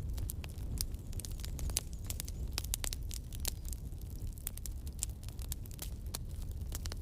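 Campfire burning, with irregular sharp crackles and pops of wood over a steady low rumble of flame.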